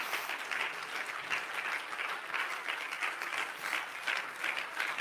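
Congregation applauding, steady dense clapping.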